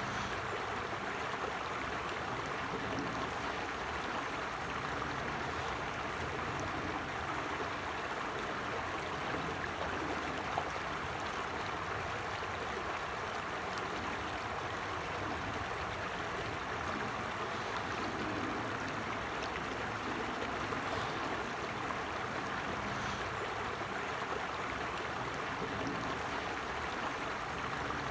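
Forest creek running over stones, an even, steady babble of flowing water.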